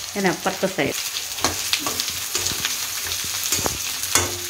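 Carrot sticks sizzling in hot oil in a metal kadai, with a metal spatula scraping and clacking against the pan as they are stirred. The sizzle is a steady high hiss, and the spatula strikes come as short sharp knocks several times.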